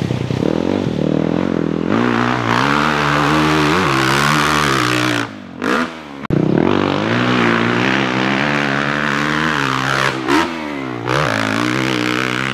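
Dirt bike engine revving hard as it rides, its pitch climbing and falling through the gears, with the throttle shut off briefly about five seconds in and again about ten seconds in before it pulls again.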